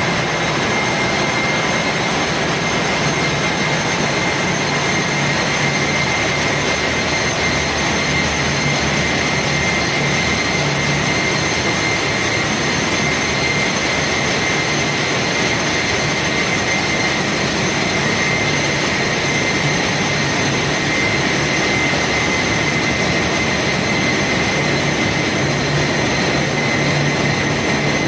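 Engine room machinery running: a loud, steady roar with a constant high whine over a low hum.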